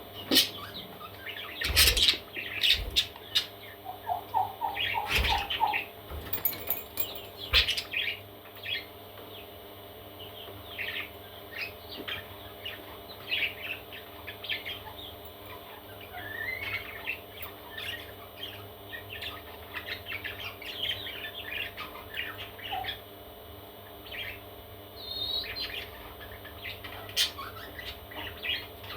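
Parrot chicks chirping and squawking in many short, scattered calls, with a few sharp knocks in the first several seconds over a steady low hum.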